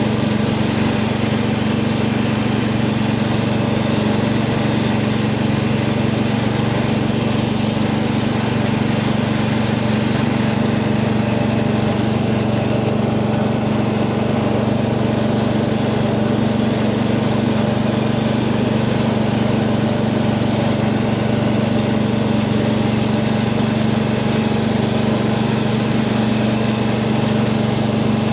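Cub Cadet 80 garden tractor's engine running steadily at an even speed, warming up after a cold start.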